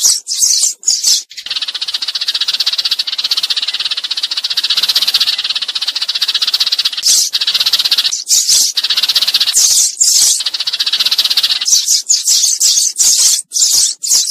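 Sparrows chirping in a flock call. A few short, sharp chirps, then a fast unbroken chatter for about ten seconds with louder chirps breaking in, and separate chirps again near the end.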